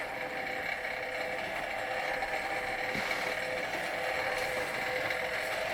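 Huxtable hot-air Stirling engine and the toy fairground rides it drives, running steadily with an even mechanical whir.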